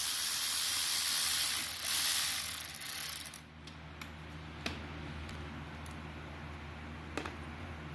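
Ratchet wrench clicking rapidly for about three and a half seconds, then a few single clicks.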